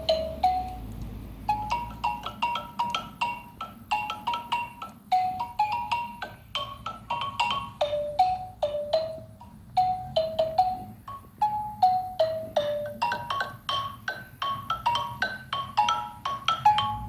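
Xylophone played with mallets: a quick, steady run of short struck notes, about three to five a second, stepping up and down over a few pitches in a simple repeating melody.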